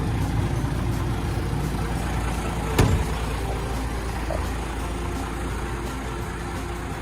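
Isuzu Giga heavy truck's diesel engine idling steadily, with a single sharp click about three seconds in.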